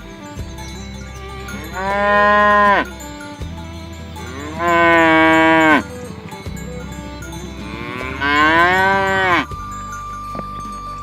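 Cows mooing: three separate moos, each lasting about a second, a couple of seconds apart; the last one rises in pitch.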